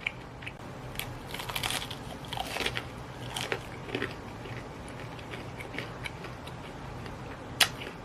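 Close-miked eating sounds: biting and chewing in clusters over the first half, fainter mouth noises after, and one sharp click near the end.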